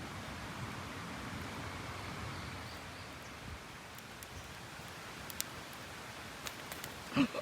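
Quiet outdoor ambience: a soft steady rustling hiss with a few faint scattered clicks, and a brief pitched animal-like call near the end.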